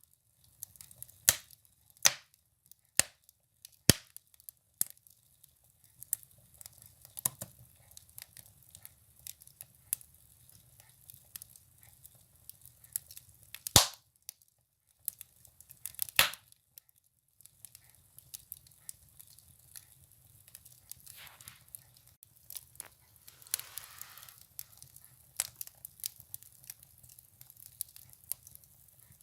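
Firewood burning in a stove, crackling with irregular sharp pops and snaps, the loudest two around the middle. A soft hiss rises briefly about three quarters of the way through.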